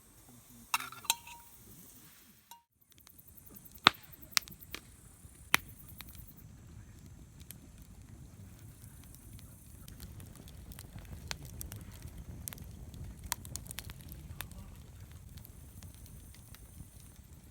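Wood campfire crackling, with several sharp, loud pops in the first six seconds and many fainter crackles over a low rumble after that.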